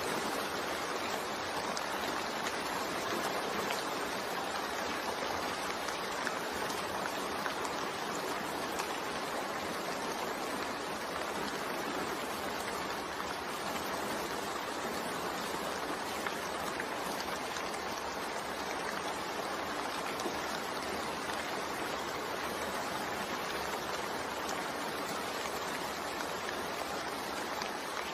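Steady, gentle rainfall, an even hiss of falling rain with fine droplet ticks.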